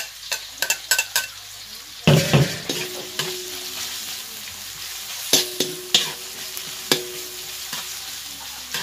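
Sliced red onions and garlic frying in a large aluminium wok: a steady sizzle, with a stainless steel ladle stirring and scraping, knocking sharply against the pan again and again, loudest about two seconds in.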